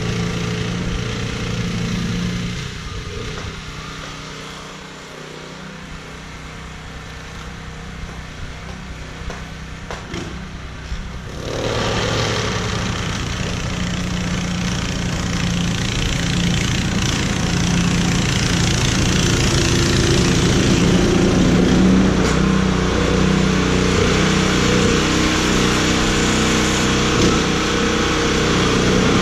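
Small engine running steadily. It fades for several seconds, then comes back louder and noisier from about eleven seconds in.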